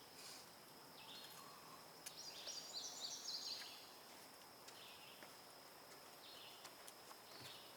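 Faint woodland birdsong: a quick run of high notes about two seconds in, with short calls repeating every second or so, and a few faint ticks.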